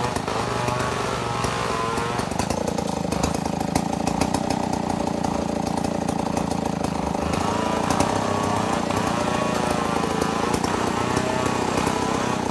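Chainsaw engine running steadily under load, milling a mahogany log into slabs.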